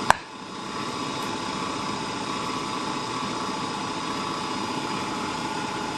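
A sharp click at the very start, then a steady machine hum with a fixed high whine that holds unchanged throughout.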